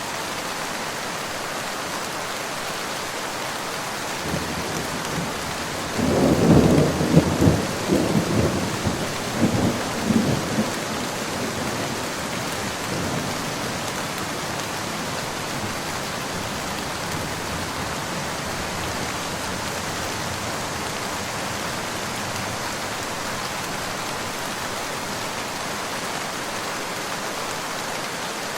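Steady rain falling, with a roll of thunder about six seconds in that rumbles for several seconds, loudest near the start, and fades away.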